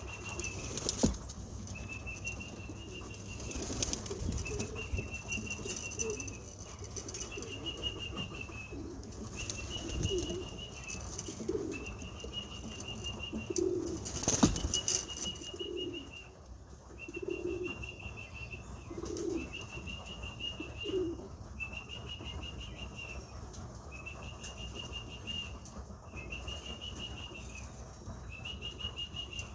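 Homing pigeons' wings flapping in several loud bursts during the first half, with pigeons cooing in short low notes through the middle. A steady high tone, about a second long, repeats roughly every second and a half throughout.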